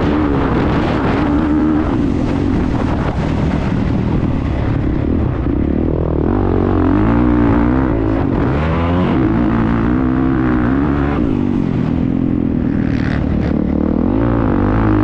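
Motocross motorcycle engine heard from on board, revving up and down over and over, its pitch rising and dropping every second or so.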